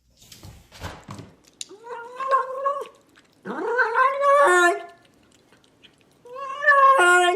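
A cat yowling three times in long, drawn-out calls, the second sliding up in pitch, after a few faint knocks.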